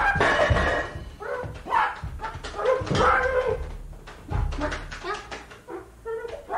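Squawks and clucks from a giant chicken in a short string of animal calls, with low thuds beneath.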